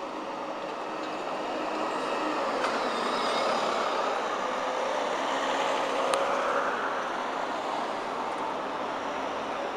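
Articulated bus running, a steady engine and road noise that builds a little after the first second, with two sharp clicks, one a few seconds in and one past the middle.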